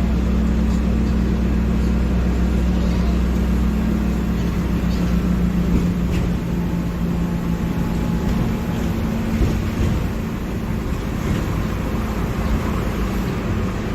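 Mercedes-Benz OF-1721 bus's six-cylinder diesel engine running with a steady note. About halfway through, its deep low drone drops away and the engine carries on more lightly.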